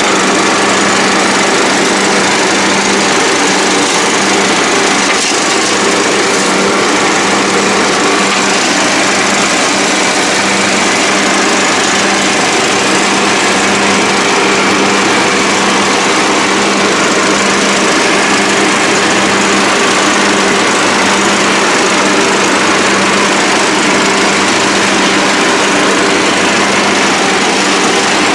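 Troy-Bilt Pony riding mower's single-cylinder Briggs & Stratton engine running steadily at a constant speed.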